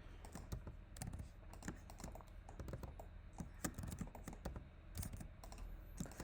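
Computer keyboard keys and mouse clicks tapped irregularly, a few presses a second, while modelling in Blender.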